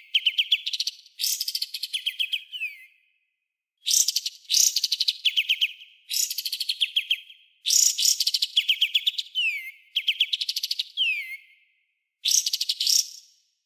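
Songbird song for bird training: sharp, rapid-fire phrases of quick repeated notes, the volleys that bird keepers call 'tembakan' and 'besetan'. Each phrase lasts about a second, many end in a falling sweep, and they follow one another with short gaps.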